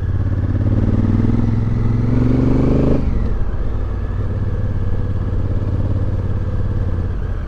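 Motorcycle engine pulling up through the revs for about three seconds, then the revs drop suddenly and it runs on steadily.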